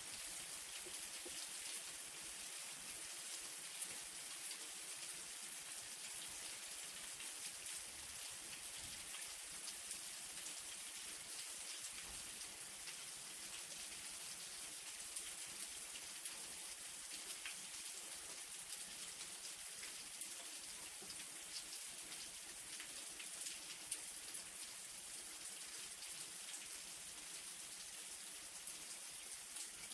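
Steady light rain: an even hiss of falling rain with many fine drop ticks and a few louder single drops.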